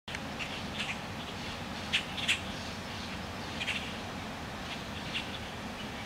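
Short, scattered bird chirps over steady background noise, the loudest two coming close together about two seconds in.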